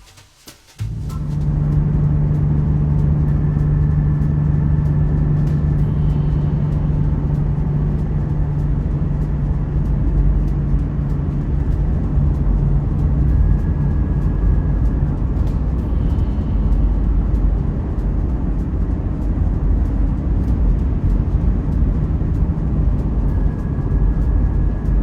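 Motorcycle riding at a steady cruising speed, a continuous engine drone with heavy wind rush, starting about a second in.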